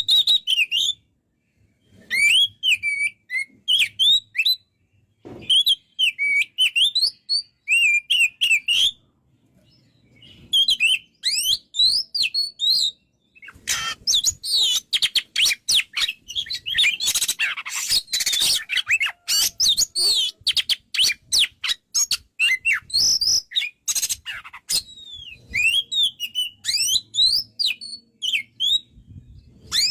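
Oriental magpie-robin (kacer) singing loudly: short phrases of gliding, whistled notes separated by brief pauses. From about halfway in, a long run of rapid, harsh, chattering notes goes on for several seconds before the whistled phrases resume.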